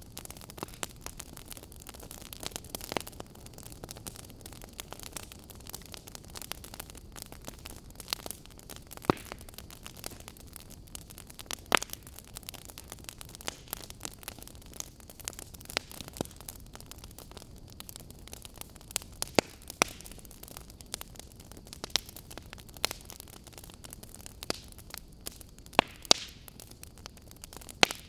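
Wood fire burning with a steady hiss and irregular sharp crackles and pops from the burning logs, a few of them much louder than the rest.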